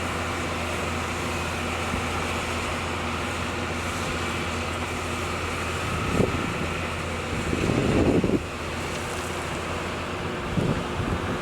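Excavator diesel engine running steadily, with louder low swells about six and eight seconds in and again near the end.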